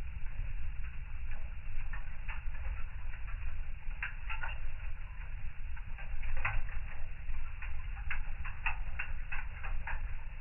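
Fire burning in a fireplace, crackling with irregular sharp pops and snaps over a low, steady rumble of the flames.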